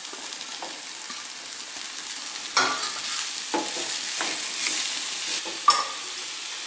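Mushrooms and onions sizzling in oil in a stainless steel pan while a wooden spatula stirs them, with a steady hiss. Several sharp knocks of the spatula against the pan sound through it, the loudest one near the end.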